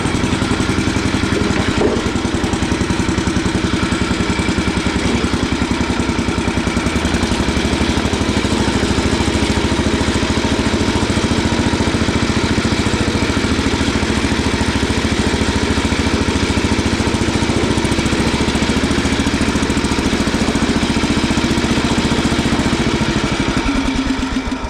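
Oliver 1950-T tractor's turbocharged diesel engine running steadily with a baler behind it, then dropping off sharply near the end as it is throttled down or shut off.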